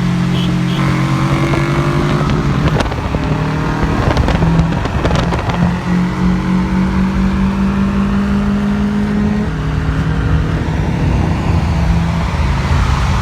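Naturally aspirated flat-four engine of a 2005 Subaru Impreza RS wagon running while the car is driven. Its pitch rises in the first couple of seconds, drops about three seconds in, then holds steady with another step down near nine and a half seconds.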